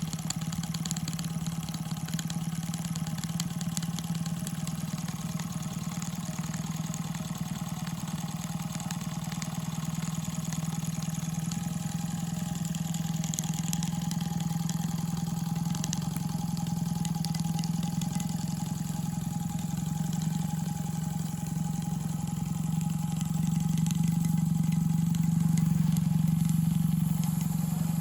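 Rocking Whale BL1K single-cylinder double-acting model steam engine running steadily, a continuous fast mechanical hum, a little louder near the end.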